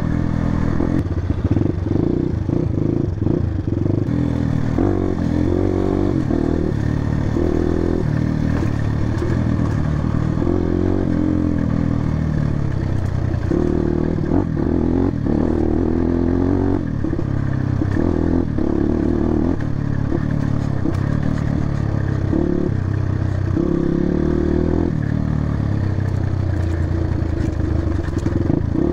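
Motorcycle engine running while riding a rough dirt trail, its pitch rising and falling with the throttle, with rattling and knocking from the bike over bumps.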